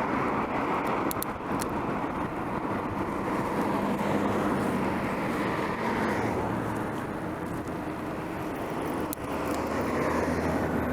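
Road traffic on a city street: a steady wash of car tyre and engine noise. A lower engine hum joins about halfway through.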